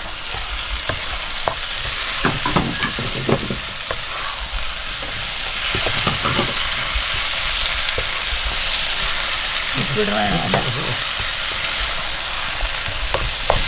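Sliced onions and tomatoes sizzling in hot oil in a non-stick kadai while a spatula stirs them, with scattered scrapes and taps of the spatula against the pan. The sizzle grows a little stronger about halfway through.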